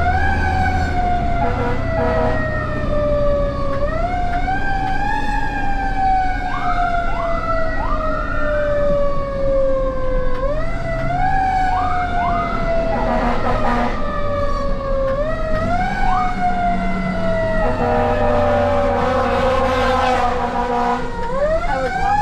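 Fire engine siren heard from inside the moving truck's cab. It winds up sharply and then falls slowly, again and again, the pattern typical of a mechanical siren, over the low rumble of the engine.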